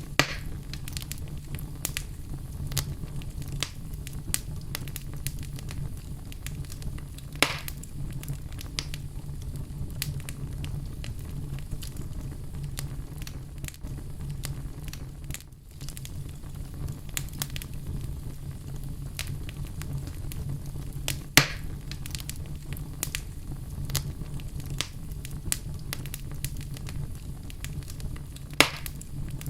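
Fire burning in a fireplace: a steady low rumble under constant fine crackling, with a few louder sharp pops, three of them standing out.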